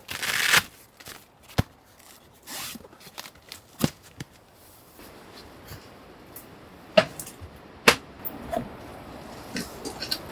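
Objects being handled at close range: scattered sharp clicks and knocks, with a brief rustle at the start and another a couple of seconds in.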